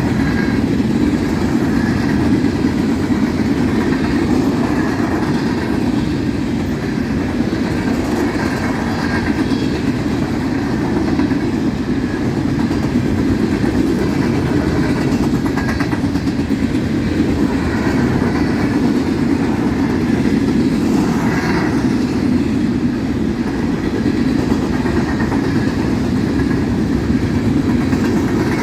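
Freight train of steel gondola cars rolling past at speed, a loud, steady rumble of wheels on rail.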